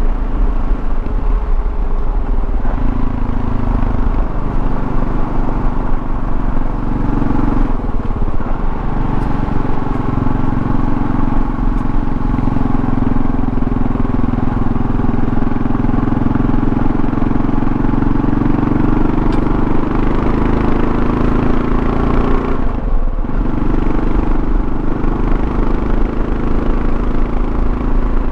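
The single-cylinder engine of a 2024 Kawasaki KLR650 running steadily under way, heard from the rider's seat with road noise. The engine note dips briefly twice, about eight seconds in and again near the end.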